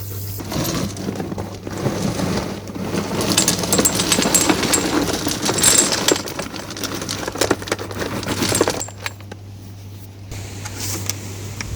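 Gravel stone being poured and moved, clattering with many small clicks for about eight seconds, then going quieter. A steady low hum runs underneath.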